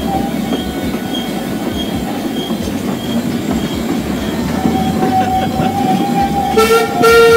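Narrow-gauge train heard from aboard a carriage: steady rumble of the wheels on the rails with a sustained high squeal from the wheels on a curve, then two short whistle toots near the end.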